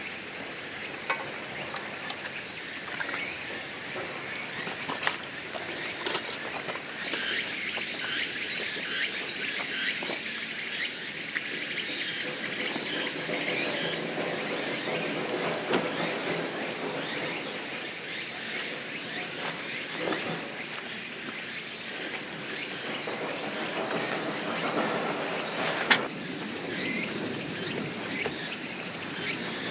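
Steady high buzzing of a summer insect chorus in forest, with a few sharp light knocks.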